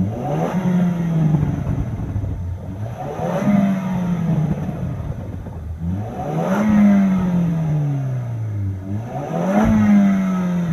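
A 2014 Range Rover Evoque's engine revved four times with the car standing. Each rev rises quickly in pitch, then falls slowly back toward idle.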